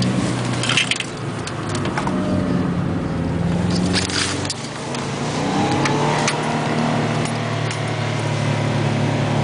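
Subaru B4 RSK's turbocharged flat-four engine running at low revs, heard from inside the cabin, its pitch shifting a little and rising briefly about six seconds in. A few short clicks and rattles sound over the engine.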